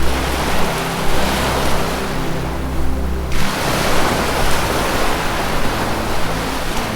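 Ocean waves washing in and receding, a fresh surge of surf about three seconds in, over soft ambient music of low held tones.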